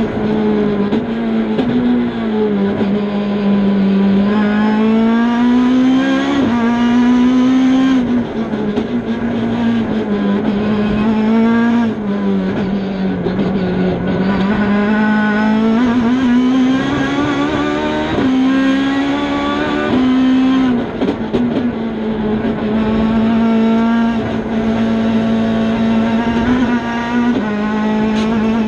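Ford Fiesta rally car's engine heard from inside the cockpit at racing pace. The revs climb and fall again and again, with sudden pitch jumps at the gear changes.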